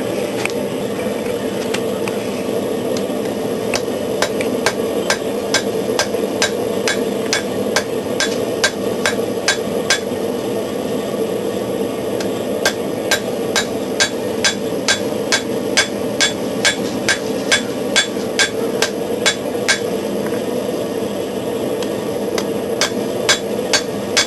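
Hand hammer striking hot knife-blade steel on an anvil, about two blows a second in runs with short pauses, over the steady roar of a small forced-air forge.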